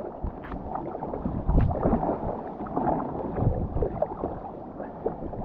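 Kayak paddle dipping and splashing in the water, with water sloshing against the kayak as it moves.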